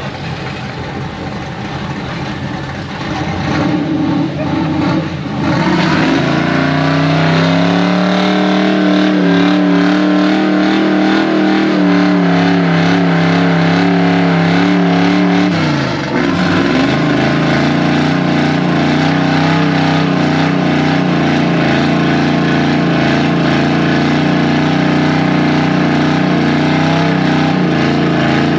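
Truck engine revving up over the first few seconds, then held at high revs during a burnout. The revs drop briefly a little over halfway through, then climb back and hold steady.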